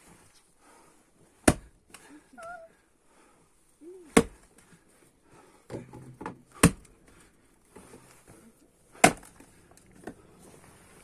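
Splitting maul striking dry ash rounds standing on the ground: four sharp chops about two and a half seconds apart.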